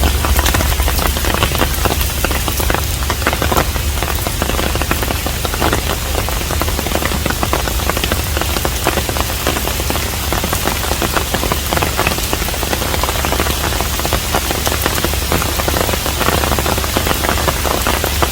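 Steady rain falling, a dense patter of countless drops over a continuous low rumble.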